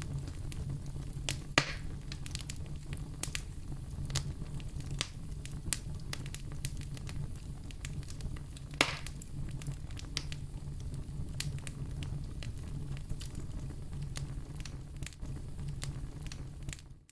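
Wood fire crackling, with many small snaps over a steady low rumble and two louder pops, about a second and a half in and near nine seconds. The sound drops out briefly at the very end.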